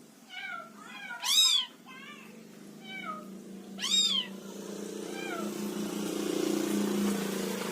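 Bird mimicking a kitten's meow: about seven short mewing calls, each rising and falling in pitch, two of them much louder than the rest.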